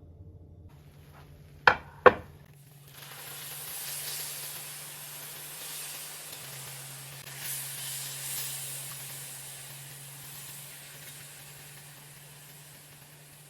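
Two sharp knocks, then hot food sizzling with a steady hiss that swells and slowly dies down.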